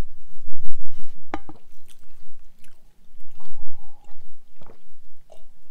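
People chewing homemade pizza, with a sharp click a little over a second in.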